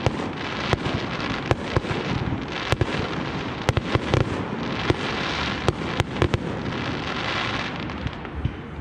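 Fireworks display: many sharp bangs of bursting shells at irregular intervals over a dense, continuous crackle, which thins a little near the end.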